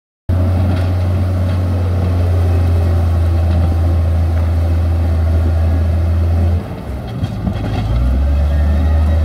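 Heavy construction machinery's diesel engine running steadily with a deep, low drone. The drone drops away for about a second two-thirds of the way through, then comes back.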